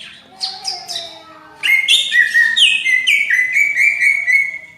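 Greater green leafbird (cucak ijo) singing: a few quick downward-sliding notes, then from about a second and a half in a loud, dense, unbroken run of rapid notes that stops near the end.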